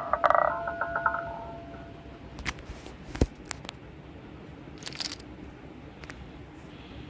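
An electronic game sound: a buzzy chord of tones that stutters and fades out within the first two seconds, followed by a few scattered sharp clicks.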